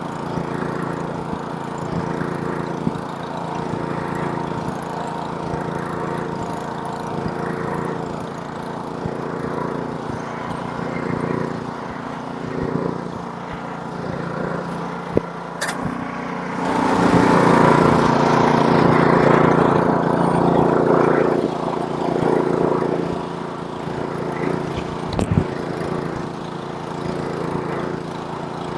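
Small gasoline engine of a snowblower running steadily. A little past the middle it gets louder and noisier for about five seconds, and there are two short sharp clicks.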